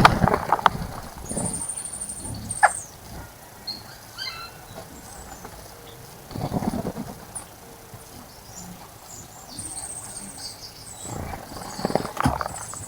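Small birds splashing in a shallow bird bath in three short bouts: at the start, about six and a half seconds in, and just before the end. High, thin trilled bird calls come between the splashes.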